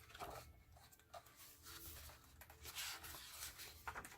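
Faint rustling of paper pages as a picture book is leafed back, several soft page-turn swishes at uneven intervals.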